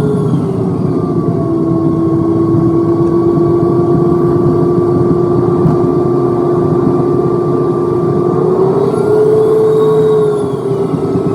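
Jet airliner engines heard from inside the cabin: a steady whine over a low rumble, dipping in pitch early on and rising again near the end as the thrust changes.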